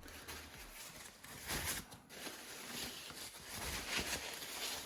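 Soft, irregular rustling and light knocks of packaging being handled, a little louder about one and a half seconds in and again around four seconds.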